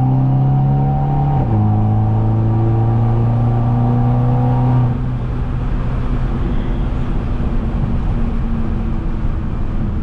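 Straight-piped, turbocharged Mercedes C250 four-cylinder under throttle: a steady exhaust drone that rises slowly in pitch, drops at an upshift about a second and a half in, and climbs again. About five seconds in the throttle is lifted, and it falls to a rougher, uneven exhaust note mixed with road noise.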